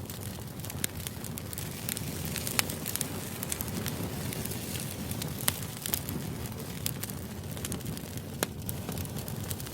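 Crackling fire ambience used as background noise: a steady low rush with sharp pops scattered irregularly through it.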